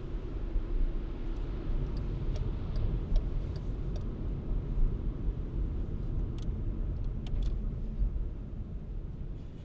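Car driving on snow-covered city streets: a steady low rumble of engine and tyres, with a scatter of faint, brief ticks through the middle.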